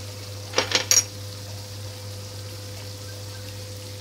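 Eggplant frying in oil, a steady sizzle over a low hum, broken about half a second to a second in by a quick clatter of three or four sharp metallic knocks on cookware.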